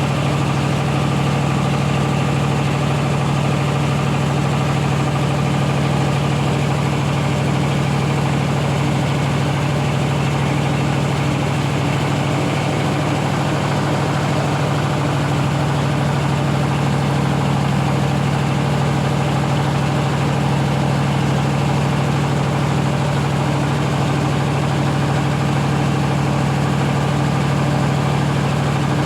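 Rice milling machine running at a steady speed: an even, loud mechanical hum with a strong low tone that does not change.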